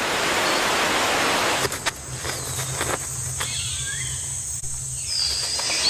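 Rainforest ambience: a steady high insect drone throughout, with a rushing noise for the first second and a half and a low hum under the middle. Thin gliding bird whistles come in past the middle, and a brighter high whistle near the end.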